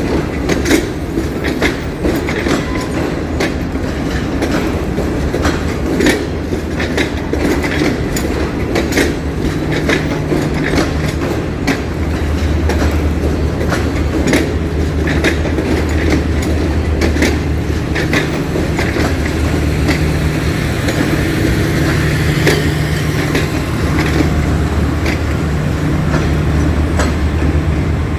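A train passing close by, its wheels clacking rapidly over rail joints above a steady rumble; the clacks thin out later, and a low steady hum comes in about ten seconds in.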